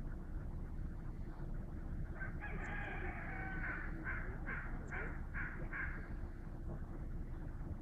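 A rooster crowing from some distance, starting about two seconds in: one long drawn-out note, then a string of about five short notes, each about half a second apart. A steady low rumble runs underneath.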